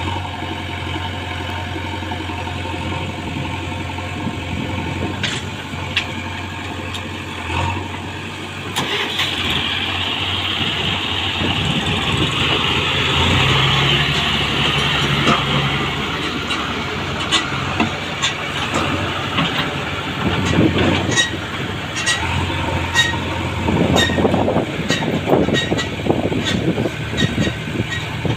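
Heavy diesel machinery running steadily, the engine noise swelling about nine seconds in for several seconds. Scattered sharp knocks and clatter, more frequent in the second half.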